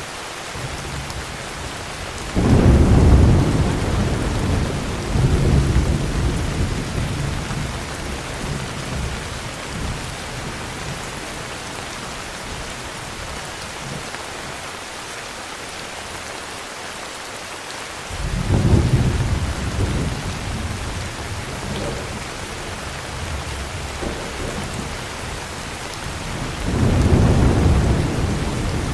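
Steady heavy rain with rolls of thunder: a deep rumble about two seconds in that rolls on for several seconds, another just past the middle, and a third near the end.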